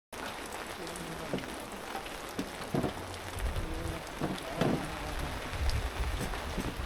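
Heavy rain falling steadily, with scattered louder drops striking nearby surfaces. Wind buffets the microphone with a low rumble that grows from about halfway through.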